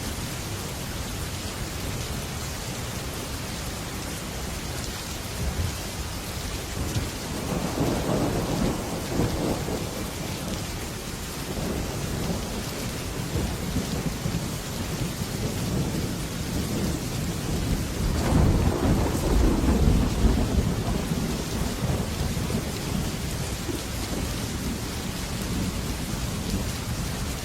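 Heavy rain falling on a metal roof as a steady hiss, with two low rolls of thunder: one about eight seconds in and a louder, longer one about nineteen seconds in.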